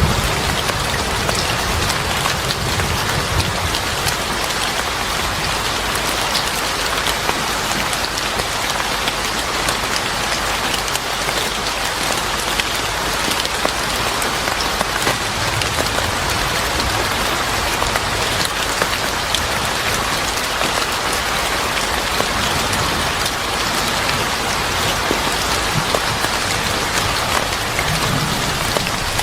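Steady rain falling on hard surfaces: an even hiss dotted with many small drop ticks, holding the same level throughout.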